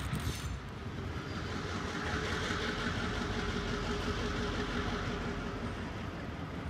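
Train rolling past, a steady rumble that swells to its loudest a few seconds in and eases off near the end.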